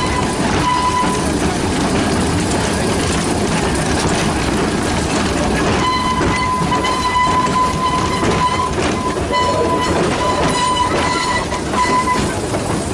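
Small-scale model locomotives running on a 32 mm gauge garden railway, their wheels rattling over the track. A steady high whine sounds briefly at the start and again from about six seconds in until near the end.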